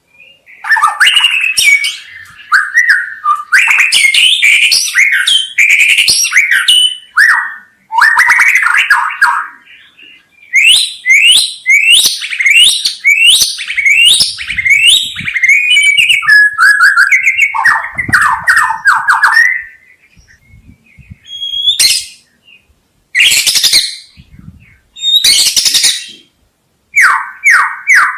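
White-rumped shama (murai batu) singing: loud, varied phrases of sweeping whistles and rapid runs of repeated notes, separated by short pauses, with a few harsh, buzzy notes in the second half.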